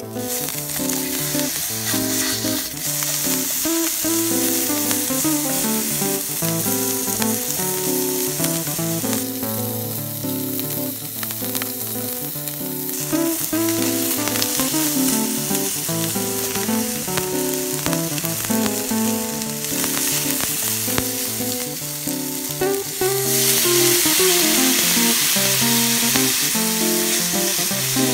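Food sizzling in a frying pan on a camp stove: leek pieces, then pork and noodles being stirred and turned with chopsticks. The sizzle eases off for a few seconds partway through and grows louder about 23 seconds in. Acoustic guitar background music plays throughout.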